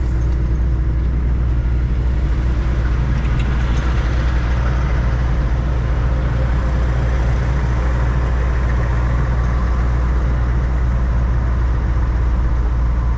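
Semi-truck's diesel engine running with a steady low drone and an even rush of noise over it.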